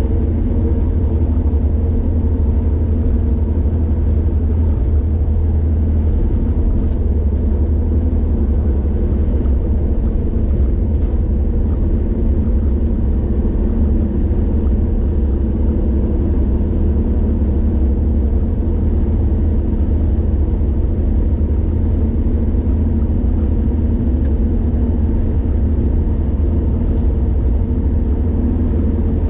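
Car driving at a steady speed on a highway: a constant low engine and road rumble with a steady hum.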